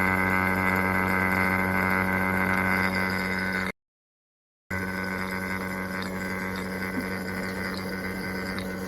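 An electric motor-driven machine running with a steady hum. The sound cuts out for about a second around four seconds in, then resumes a little quieter.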